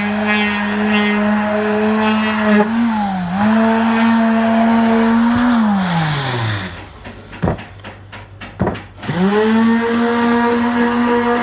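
Electric power tool motor running with a steady whine, its pitch dipping briefly as it takes a load. About halfway through it is switched off and winds down. A few knocks sound in the pause, then the motor spins back up to speed near the end.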